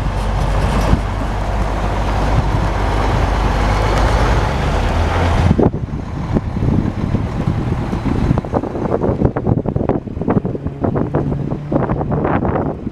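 Freight train passing behind TasRail diesel locomotives: a steady low engine drone that drops off sharply about five and a half seconds in, followed by irregular knocking and rattling.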